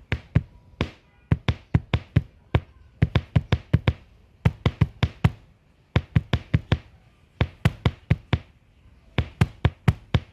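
Repeated knocking, many sharp knocks in quick uneven runs of three to six, with short pauses between the runs.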